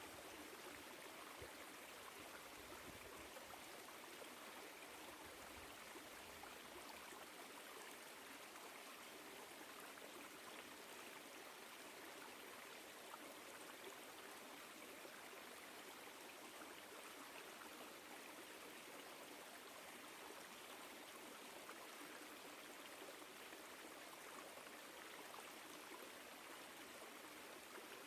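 Woodland stream flowing, a faint, steady rush of water.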